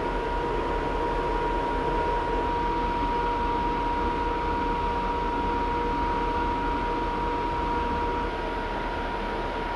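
Steady machinery noise with a constant high whine, easing slightly near the end.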